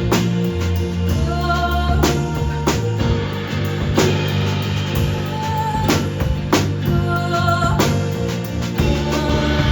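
A live band playing a song, with drum kit hits over sustained bass notes and a singing voice holding a few long notes.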